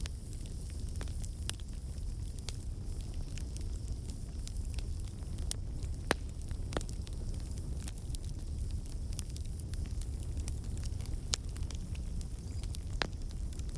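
Wood campfire crackling: scattered sharp pops and snaps, roughly one a second with fainter ones between, over a steady low rumble of the burning logs. The pops come from water and sap trapped in the wood turning to steam and bursting out.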